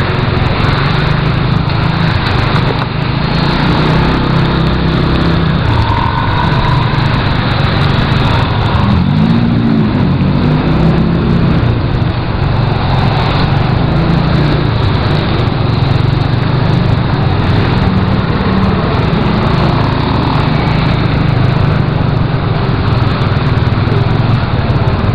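Motorcycle engine running while riding, under a steady rush of wind and road noise. About nine seconds in, the engine's pitch briefly rises and falls.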